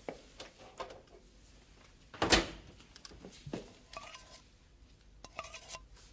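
Dishes and a food bowl being handled: light clinks and knocks, with one louder knock about two seconds in, and a couple of short squeaks later.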